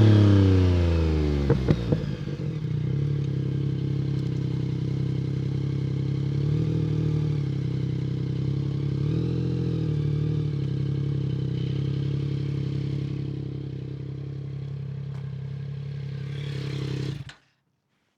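Yamaha MT-09's three-cylinder engine through an Akrapovic exhaust. The revs fall away, with a few sharp clicks, and the engine settles into a steady idle with a couple of slight wobbles. The sound cuts off abruptly near the end.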